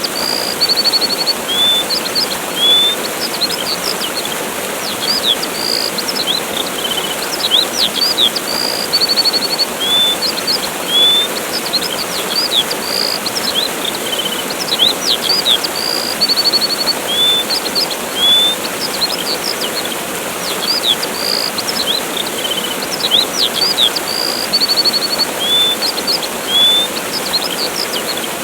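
Steady rushing of a waterfall with small birds chirping and trilling over it. The same few calls come back about every eight seconds, as in a loop.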